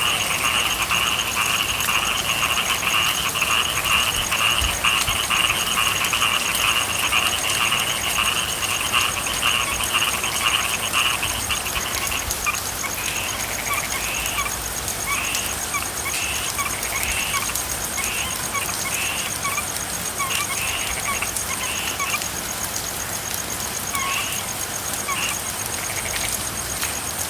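Frogs calling over steady rain: a dense, continuous chorus that thins out about halfway through into separate short calls.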